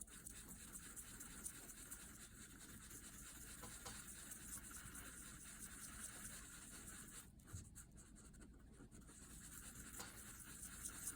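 Faint, steady scraping and stirring as the black and white parts of two-part J-B Weld epoxy are mixed together by hand.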